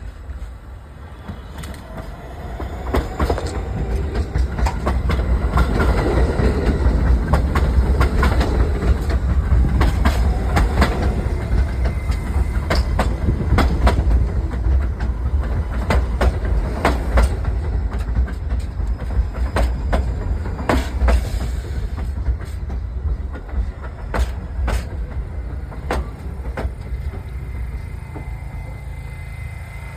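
New York City subway train running past, its wheels clacking over rail joints above a heavy rumble. It builds over the first several seconds, is loudest around the middle, then fades away.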